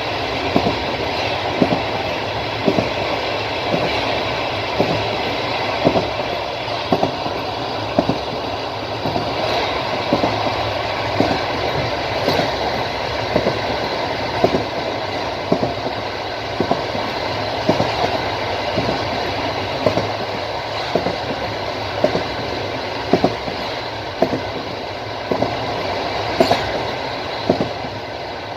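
Passenger train's wheels clicking over rail joints at speed: sharp knocks about once a second, often in quick pairs, over a steady running rumble.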